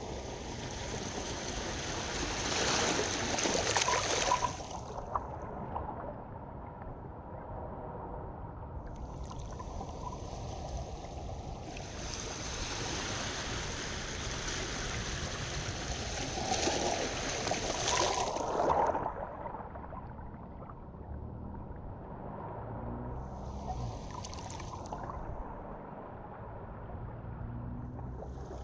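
Harbor water washing toward the shore in long surges of hiss over a steady low rush: the first surge runs to about five seconds in, a longer one from about nine to nineteen seconds in, and a short one near the end.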